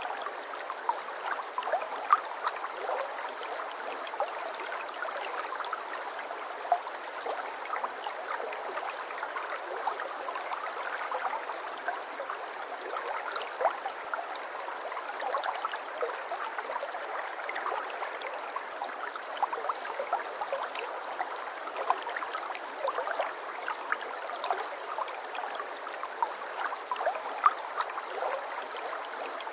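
Shallow babbling brook: water running and trickling over stones, a steady burble dotted with small splashes and gurgles.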